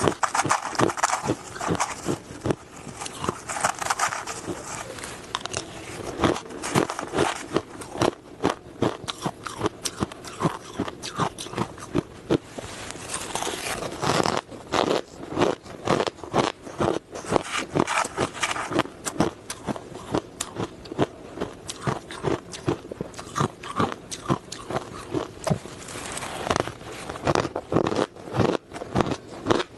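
Close-miked ice being bitten and chewed: a dense run of crisp crunches and cracks, several a second, with denser bouts about a second in, around four seconds in and around thirteen seconds in.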